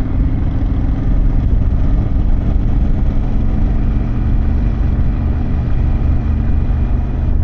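Harley-Davidson Pan America's V-twin engine and exhaust running at a steady cruise while the motorcycle rides along, with no revving.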